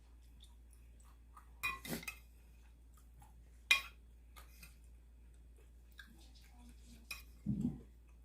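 Eating utensils clinking against a bowl of noodle soup: a few short clinks about two seconds in, a sharp one near four seconds and another near seven. Near the end comes a short, duller low sound.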